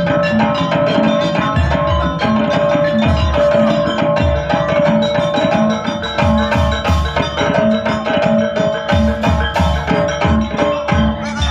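Javanese jaranan/reog ensemble music: drum beats about twice a second under tuned metal percussion, with a long held melodic note.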